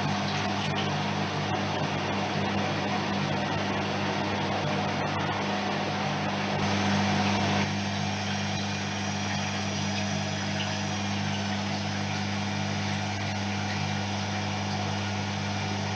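Privileg 3020 washing machine running on its 95 °C cotton programme: a steady machine hum that changes in tone about six and a half seconds in, with a faint high whine that slowly falls later on.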